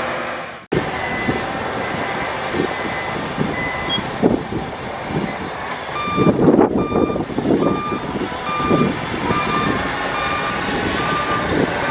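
Reversing alarm on heavy earthmoving machinery beeping steadily, about two beeps a second, over diesel engines running. The beeping is higher-pitched in the first half; from about halfway a lower-pitched beeper sounds, with some louder rough engine bursts.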